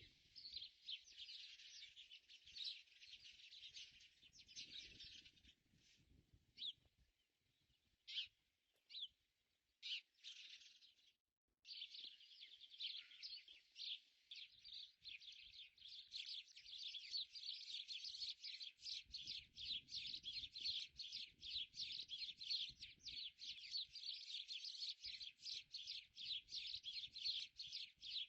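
Birds chirping in rapid, dense runs of short calls. The calls thin to a few scattered chirps for several seconds near the middle, then pick up again.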